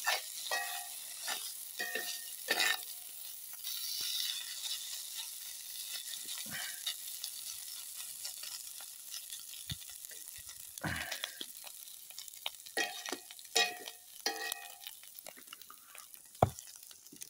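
Corned beef hash sizzling in a cast iron skillet, with a spatula scraping and stirring it against the pan in short, irregular strokes.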